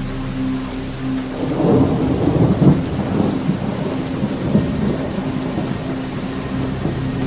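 Steady rain falling, with a rolling rumble of thunder that builds about a second in, is loudest around two and a half seconds in, and fades out by about five seconds in.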